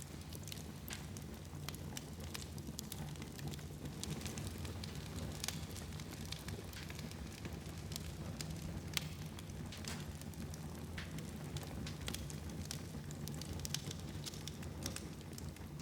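Fire burning in a fireplace: a steady low rumble of flames with frequent irregular crackles and pops, one sharper pop about nine seconds in.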